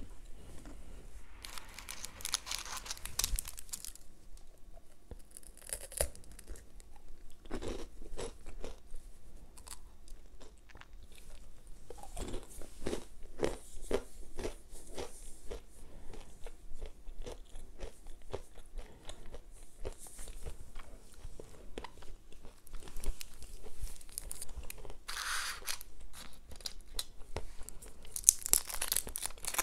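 Close-miked chewing of crunchy chocolate sweets, with scattered bursts of crunching. Near the end a paper wrapper crinkles as a sweet is unwrapped.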